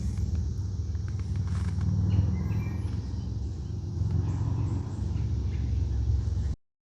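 Steady low rumble of wind on the microphone, with faint bird chirps above it. Everything cuts off abruptly near the end.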